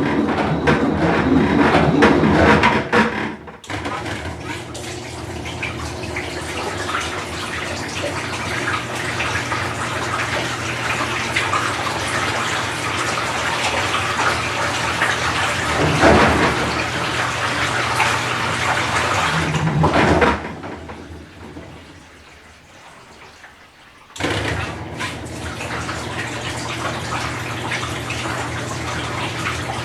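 Whirlpool Cabrio top-load washer filling with water, with water pouring into the tub over a steady low hum. The flow cuts off briefly about three and a half seconds in and again for a few seconds about two-thirds of the way through, then resumes.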